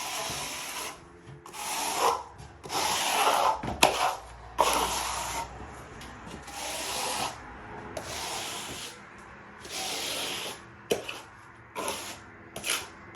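Steel plastering trowel spreading wet plaster across a wall in repeated scraping strokes, each about a second long, with a few sharp knocks in between.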